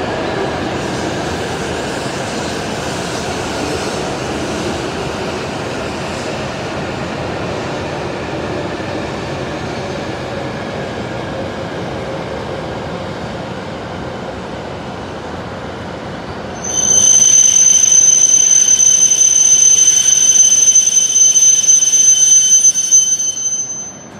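Hokuriku Shinkansen train running into the station and slowing, a steady rumble that gradually fades, then a loud high-pitched brake squeal that starts suddenly about two-thirds of the way in, holds for about seven seconds and cuts off as the train stops.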